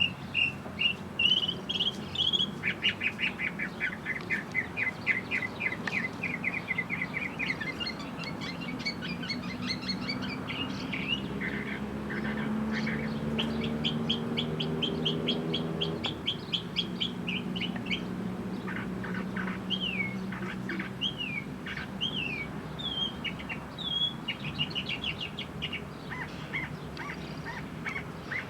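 Small birds chirping and trilling, with fast runs of short repeated notes and some single down-slurred chirps. A low steady drone sounds underneath through the middle of the stretch.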